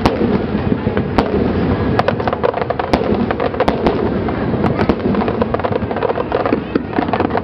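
Aerial fireworks shells bursting in a dense barrage: many sharp bangs and crackles in quick, irregular succession over a continuous low rumble.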